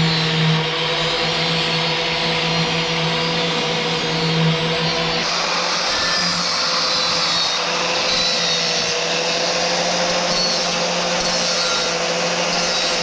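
Power tool cutting a sheet-metal patch piece, running loud and steady: a constant whine over a dense hiss.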